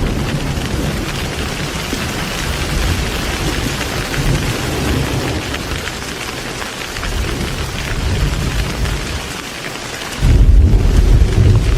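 Heavy rain falling steadily, with thunder rumbling low underneath. About ten seconds in, a sudden loud boom of thunder breaks in and keeps rumbling.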